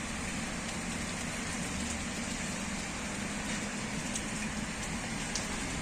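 Steady rain falling, an even hiss with a few separate drops ticking.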